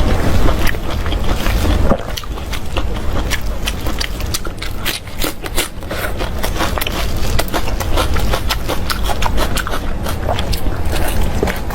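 Close-miked eating sounds: a person chewing, with a dense run of quick wet clicks and smacks, over a steady low rumble.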